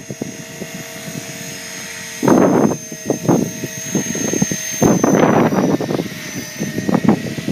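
Blade 450 3D electric RC helicopter flying: a steady high motor whine and rotor hum, broken by loud bursts of rushing noise about two seconds in and again about five seconds in.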